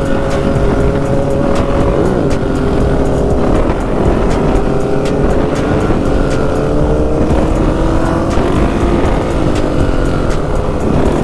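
Dirt bike engine running while riding, its note holding fairly steady and drifting slowly in pitch, under heavy wind rush on the rider's microphone.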